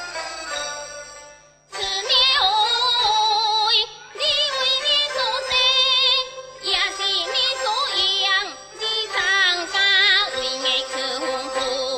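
Teochew opera music: a short instrumental passage fades out, then a high voice sings phrases with wide vibrato and sliding pitch over the accompaniment.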